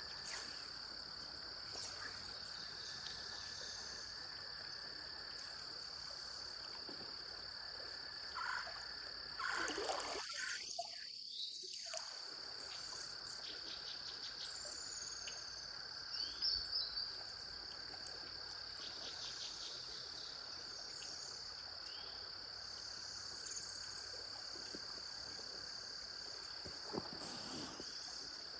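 A chorus of cicadas, a steady high drone with a fainter lower hum underneath, with a few short bird chirps in the middle.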